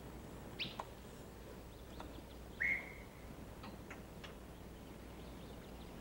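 A few short, scattered bird chirps, mostly quick falling notes, with one louder chirp about two and a half seconds in, over a faint steady low hum.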